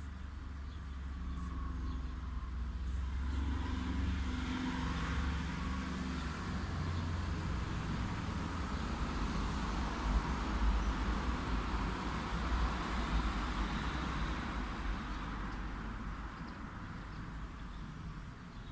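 A single car passing by on a road: its engine hum and then its tyre noise build up over several seconds, are loudest about halfway through, and fade away near the end.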